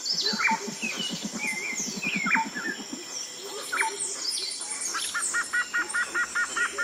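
Several birds singing and calling together, with scattered chirps and whistled notes. A rapid low rattle runs through the first three seconds, and from about five seconds in one bird repeats a two-note phrase about four times a second.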